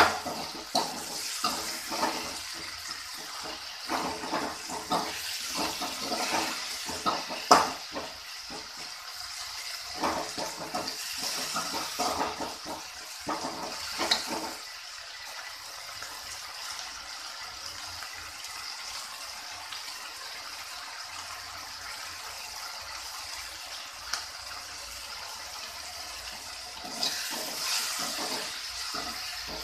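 Tomatoes and onions sizzling in oil in a steel kadai while a metal spatula scrapes and clinks against the pan as it stirs. The stirring stops about halfway through, leaving a steady sizzle, and starts again near the end.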